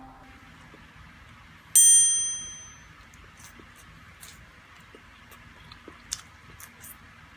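A single bright metallic ding, about two seconds in, ringing out and fading over about a second, followed by faint scattered clicks.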